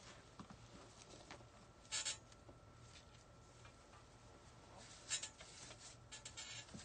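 Faint, brief rustling of artificial evergreen picks being handled and worked into a wreath, once about two seconds in and again about five seconds in, over a low steady hum.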